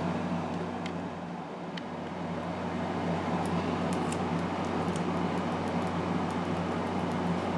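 Steady mechanical room hum, like a fan or air conditioner, with scattered faint light clicks and ticks that come more often in the second half, from small plastic model-kit parts being handled while they are glued together.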